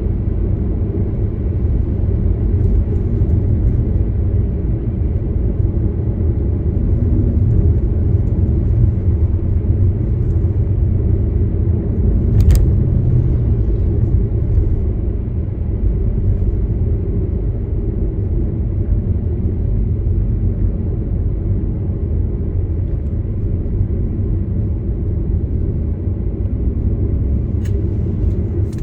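Steady low rumble of a car on the move, engine and tyre noise. There is one sharp click about twelve seconds in.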